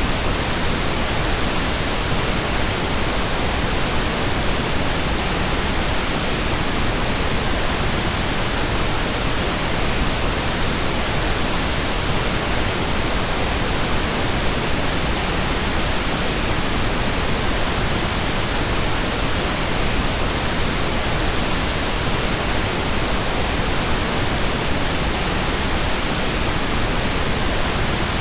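Steady pink noise: an even, unchanging hiss spread across the whole range of hearing.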